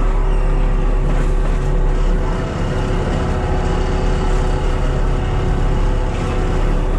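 Cat skid steer's diesel engine running steadily under load, with a steady whine over its drone, while working a brush-cutter mulching head.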